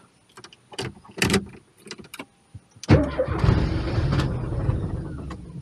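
Key and ignition clicks, then about three seconds in the Porsche's engine cranks and fires, runs for a couple of seconds and dies away near the end. It is stalling straight after starting, as it will not hold idle speed.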